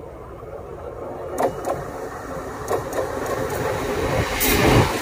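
Mumbai suburban EMU local train approaching and growing steadily louder, with several sharp clacks from its wheels on the track.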